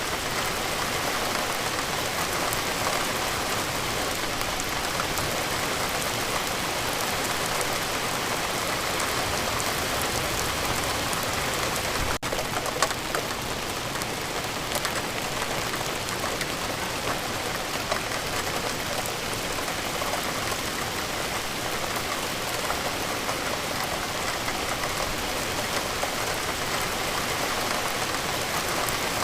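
Steady rain falling, a continuous even hiss of drops with a momentary break about twelve seconds in.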